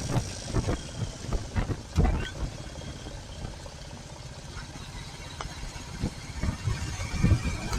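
Royal Enfield Classic 350's single-cylinder engine running at low revs, a low pulsing rumble, with rough bursts of noise in the first couple of seconds.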